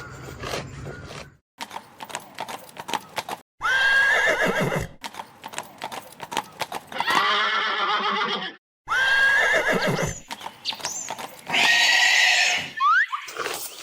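Horse neighing four times, with clip-clop hoofbeats clicking between the calls.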